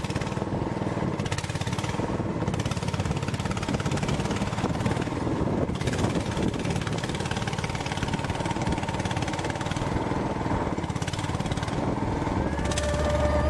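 Steady engine noise of a moving vehicle. About a second before the end, a held tone joins in and dips slightly in pitch.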